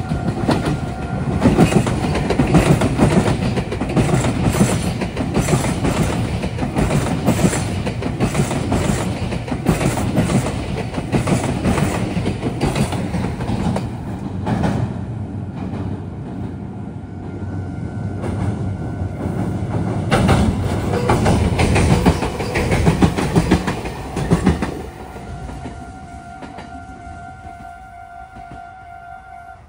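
Meitetsu electric train running through, its wheels clattering rhythmically over the track. It is loudest near the start and again about twenty seconds in, and dies away about 25 seconds in. A level crossing warning bell rings with a steady tone at the very start and again after the train has gone.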